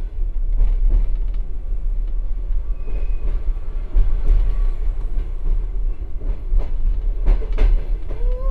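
Passenger compartment car of a moving express train, heard from inside the car: a steady low rumble with irregular sharp clicks and knocks as the wheels run over rail joints and points in a station yard.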